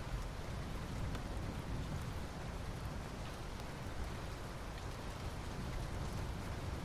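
Soft rain falling steadily on asphalt, an even hiss with faint scattered drop ticks and a steady low rumble underneath.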